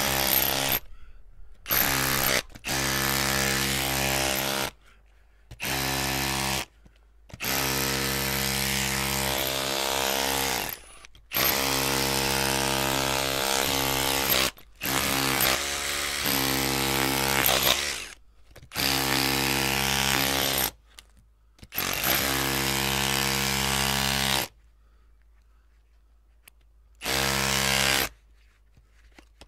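Electric drill running in repeated bursts of a few seconds at a steady pitch, each stopping abruptly and separated by short pauses, with a longer pause near the end.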